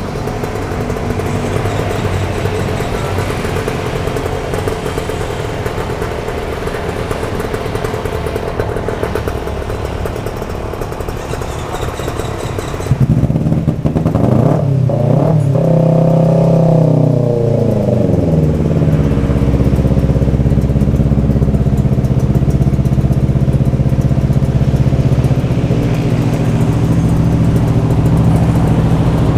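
Two-stroke motorcycle engine running through a Corse Project silencer on an AHU expansion chamber. About halfway through it gets louder and its pitch swings and falls away over a few seconds, then it settles into a steady run.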